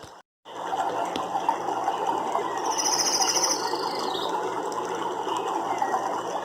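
A dense, steady chorus of small animal calls in a nature recording, starting just after a brief dropout, with a short fast high trill about three seconds in.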